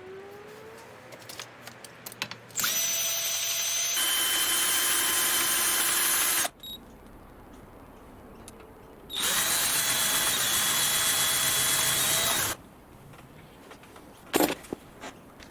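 An electric power tool motor running in two bursts of about four and three seconds, each with a steady whine and stopping abruptly; the second winds up as it starts. A couple of sharp knocks follow near the end.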